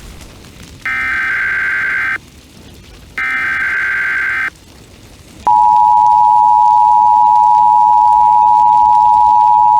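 Emergency Alert System tones: two harsh, buzzy digital data bursts of about a second each, the SAME header, then about five and a half seconds in the steady, louder two-tone EAS attention signal begins and holds.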